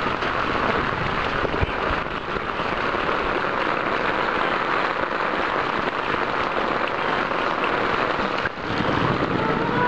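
Hard rain, heard through the plastic waterproof bag sealed around the camera: a steady, dense hiss.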